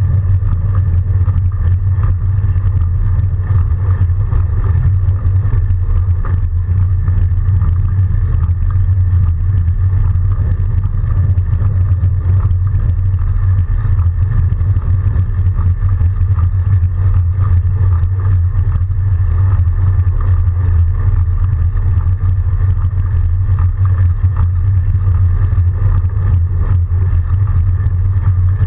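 Steady, loud low rumble of riding a BionX electric-assist Surly Moonlander fat bike through snow, with a fainter steady hum higher up and no pauses or sudden sounds.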